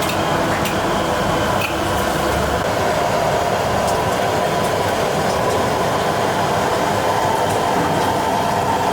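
Steady roar of a busy commercial kitchen running, with a few faint clicks and clinks.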